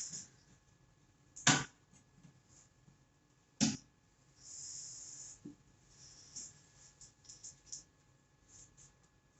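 Two sharp clicks about two seconds apart, then soft high rustling and a few small ticks: hands working a plastic plug and its cord.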